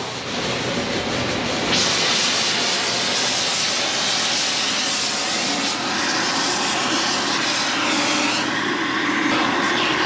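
Loud steady hissing of metal-cutting work as the worn pin bore of a John Deere 350G excavator is cleaned out to take new bushings; the hiss grows brighter about two seconds in and eases near the end.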